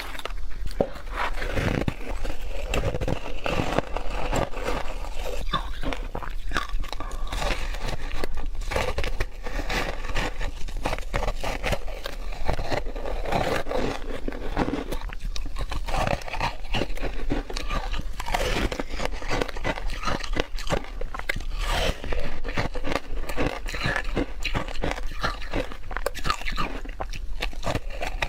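Crushed, shaved ice being bitten and chewed: dense, continuous crunching with many small cracks.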